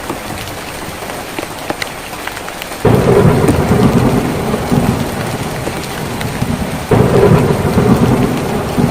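Rain drumming on a tin roof, with single drops ticking through it. About three seconds in, a loud low rumble of thunder starts suddenly and slowly eases, then a second rumble starts just as suddenly near the end.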